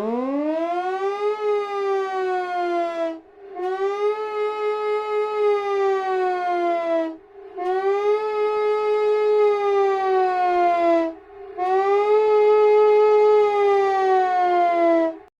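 Outdoor civil-defense warning siren winding up from a low pitch, then sounding a steady wail that sags slightly in pitch. Its sound fades out and comes back about every four seconds, four times in all. It cuts off abruptly at the end.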